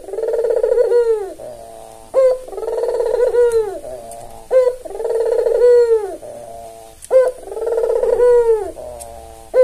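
Barbary dove (white albino puter) cooing in a steady rhythm: four two-part calls, each a short sharp note followed by a long, rolling coo that drops in pitch at the end, repeating about every two and a half seconds.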